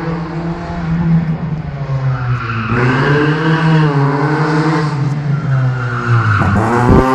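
Opel Vectra A engine held at high revs, rising and falling as the car is thrown around cones, with its tyres skidding for a couple of seconds in the middle. The revs drop sharply just before the end.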